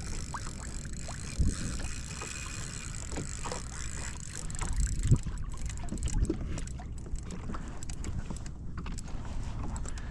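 Wind buffeting the microphone over water sloshing around a fishing kayak, with scattered light knocks against the hull and gear.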